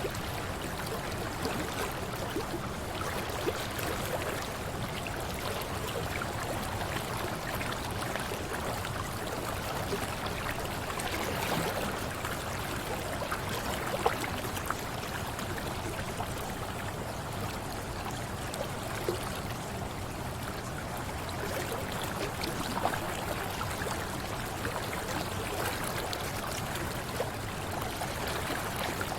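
Mountain river running steadily over stones, an even rushing and gurgling flow with a few brief sharp clicks in it.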